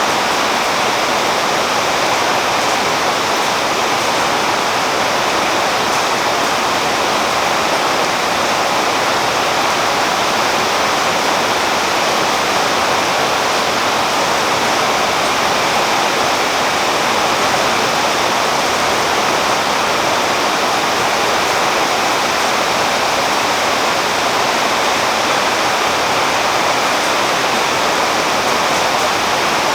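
Steady rain falling on a tree's leaves, an even unbroken hiss with no single drops standing out.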